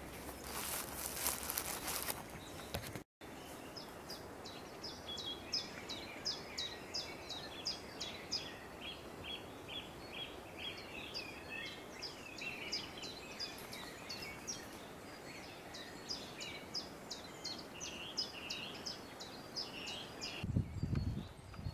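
A small bird singing: quick runs of short, high, falling notes, repeated over and over against a steady outdoor hiss. A low rumble comes in near the end.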